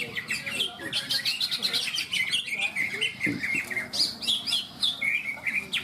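Several caged cucak ijo (greater green leafbirds) singing at once, with fast overlapping chirps and trills.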